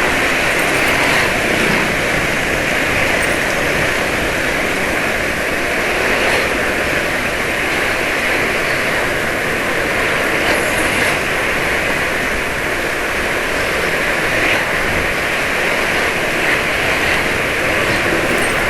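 Steady rush of wind and road traffic noise heard from a moving motor scooter, with no single engine standing out.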